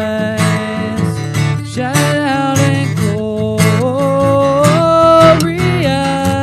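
Worship band playing a song's instrumental opening: strummed acoustic guitar with a steady rhythm under a held melody line that steps between notes.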